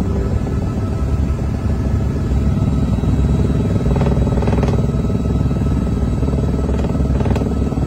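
Helicopter running, a loud steady engine and rotor noise with rapid beating, heard from inside the cabin.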